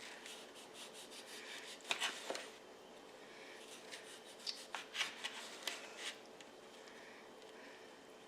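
Hands handling things in a kitchen: light rubbing and rustling with a few soft clicks, about two seconds in and again from about four to six seconds in, over a faint steady hum.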